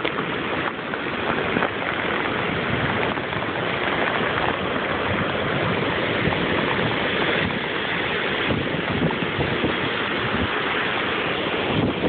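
Heavy hurricane rain pouring down with wind: a steady, unbroken hiss of rain on wet ground and furniture.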